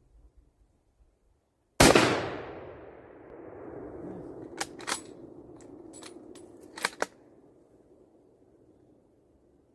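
A single shot from a Mauser 98 rifle in .30-06, its report echoing and dying away over several seconds. A couple of seconds later comes a quick run of sharp metallic clicks and clacks as the bolt is worked.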